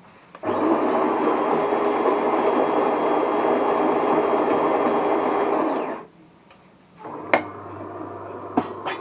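The built-in grinder of a De'Longhi ESAM1000SJ espresso machine runs loudly for about five and a half seconds, its motor whine rising as it starts and falling as it stops. Near the end the machine goes on with a quieter steady hum and a couple of sharp clicks.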